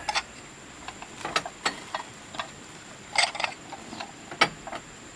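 Irregular light clicks and knocks, a dozen or so, some coming in quick clusters, over a faint steady high-pitched tone.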